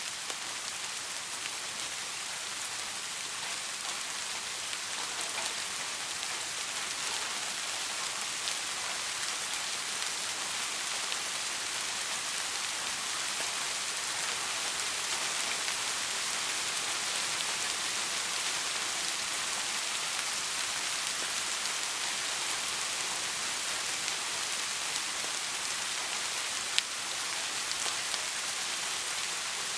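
Steady soft rain: an even hiss of falling rain with scattered fine drop ticks, and one sharper click near the end.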